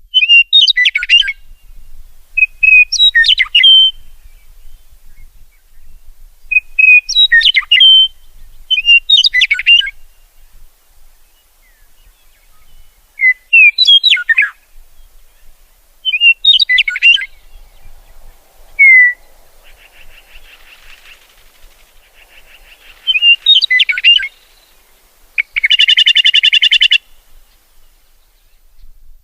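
A songbird singing short, high, warbled phrases, repeated every two to three seconds with pauses between. Near the end comes a louder, harsh buzzy call lasting about a second and a half.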